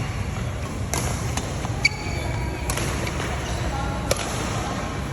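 Badminton play: sharp racket hits on the shuttlecock, about four in a few seconds, with brief squeaks of shoes on the court floor.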